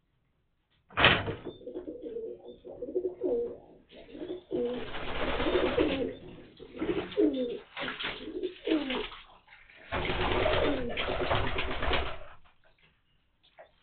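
Homing pigeons cooing, with long bursts of splashing as the birds bathe in a tray of water, one about four seconds in and another from about ten seconds in. The sound starts suddenly about a second in.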